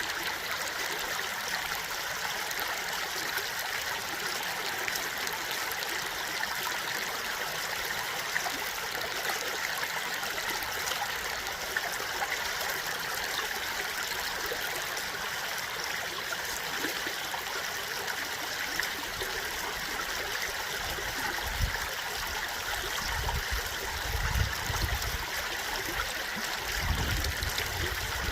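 A stream of water running and trickling steadily, with a few low rumbles in the last several seconds.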